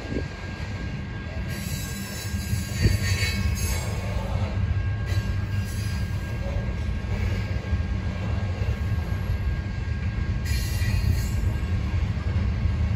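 Train rolling past with railcars rumbling steadily, and brief higher-pitched wheel screeches about one and a half seconds in, around five seconds and again near the end.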